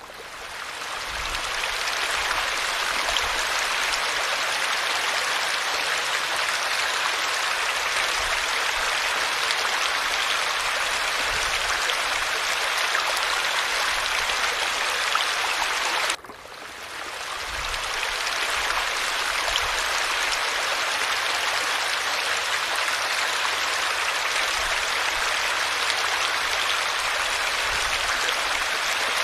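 Steady rushing splash of falling water. About halfway through it drops away suddenly and swells back over a couple of seconds.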